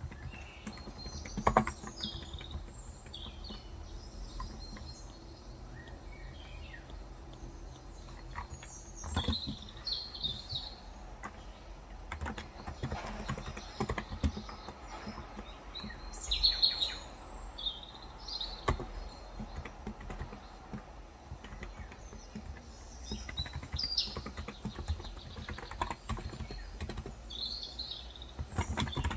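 Small birds chirping in short, scattered calls over a low steady background hum, with a few isolated keystrokes on a Cox Endeavour 35 g electro-capacitive tenkeyless keyboard now and then.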